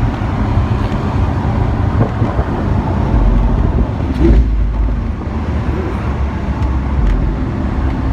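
Lamborghini Aventador SV's V12 engine and road noise heard from inside the cabin while driving in Sport mode, a steady low drone that swells a little about three seconds in.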